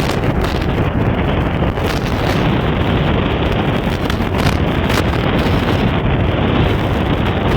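Steady wind rush buffeting the microphone of a moving Honda SP125 motorcycle, with the bike's engine and road noise underneath.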